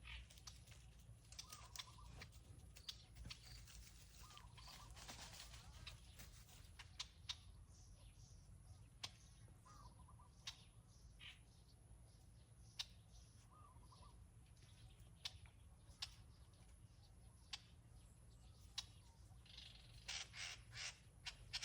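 Faint bird calls, a few short ones spread through, against very quiet outdoor background with scattered small clicks.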